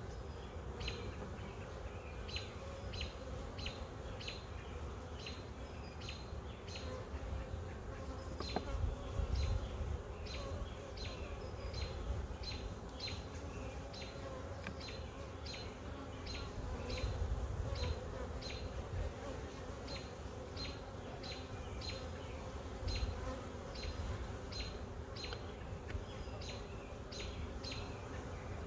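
Honey bees buzzing around an open hive, a steady hum. Over it, a short high chirp repeats evenly, about one and a half times a second.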